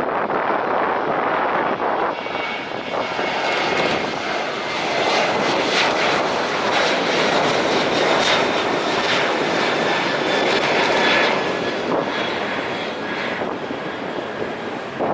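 Four-engined Airbus A380 airliner's jet engines running, a loud, dense rush with a faint steady high whine that swells through the middle and eases slightly near the end.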